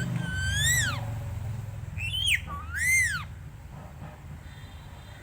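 Indian ringneck parrot giving crow-like 'kaa' calls: two long calls that each rise and then fall in pitch, with a short call just before the second, over a steady low rumble.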